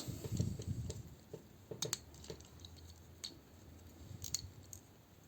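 Plastic action-figure parts being handled and folded, with soft rustling and a few faint, sharp clicks as the joints are moved.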